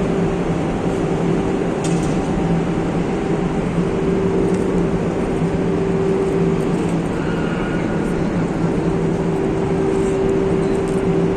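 Steady, loud industrial hum of a steel melt shop's furnace and machinery, with two steady low tones over an even rushing noise.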